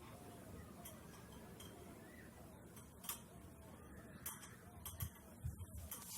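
Light clinks and taps of kitchenware, about seven scattered over a few seconds, over faint room noise.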